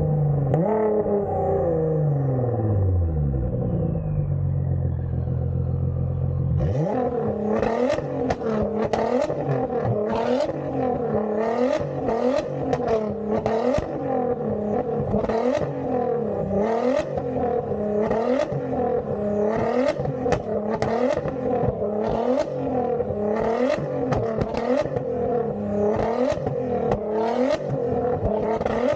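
Nissan GT-R's twin-turbo V6 through a straight-piped exhaust. Its pitch falls from a rev and holds steady for several seconds. From about seven seconds in it is blipped over and over, about once a second, with sharp crackles and pops from the exhaust.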